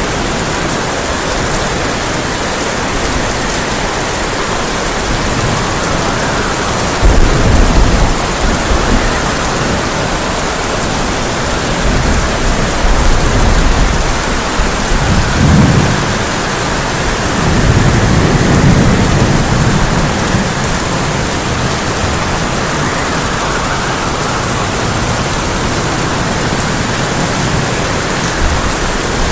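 Heavy rain falling steadily on a tin roof, with thunder rumbling underneath: a sudden loud rumble about seven seconds in, then longer rolling rumbles through the middle.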